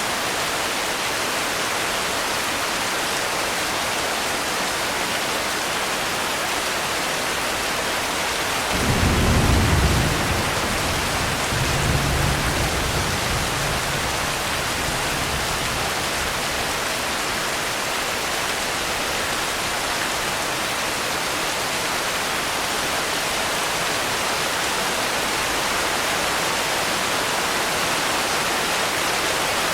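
Steady rain falling with an even hiss. About nine seconds in, a low roll of thunder rises suddenly and fades, followed by a smaller second rumble a few seconds later.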